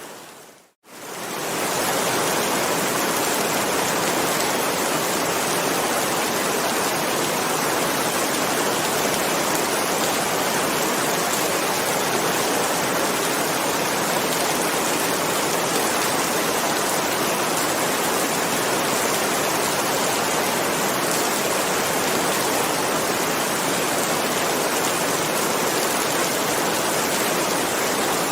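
Steady heavy rain as one even hiss, with no thunder. Under a second in, the sound fades briefly to silence and swells back up, as at the join of a looped rain recording.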